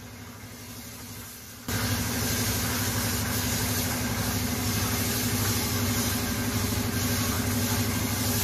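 A motor-driven spray washer starts up about two seconds in and then runs steadily, a low machine hum under a hiss of spray, as diesel is sprayed over a motorbike in a diesel wash. Before it there is only a faint low background.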